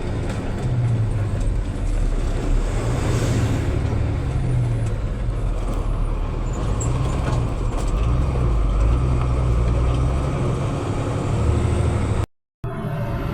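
Steady engine and road noise of a moving motor vehicle: a continuous low rumble with a noisy rush above it.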